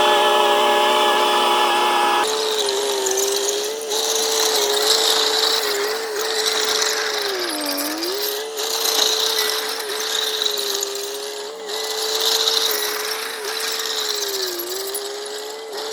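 A motor whining steadily over mechanical noise, its pitch dipping briefly about halfway through and again near the end, as if it was loaded for a moment.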